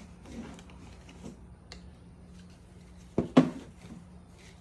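Handling noise from assembling a lawn mower's mulch bag and its frame: scattered light clicks and rattles, with a loud double knock about three seconds in.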